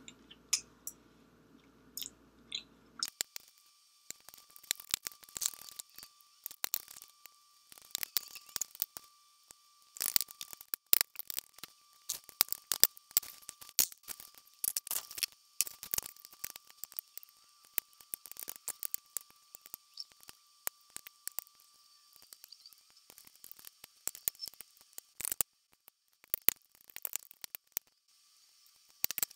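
Close-miked chewing of roast chicken: irregular wet mouth clicks and smacks in quick succession, with the odd clink of a metal fork against a glass baking dish.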